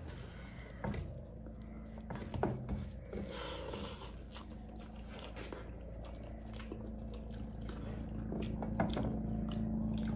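Close chewing and wet mouth sounds of people eating rice and pork by hand, with many small scattered clicks and smacks. A faint steady low hum runs underneath.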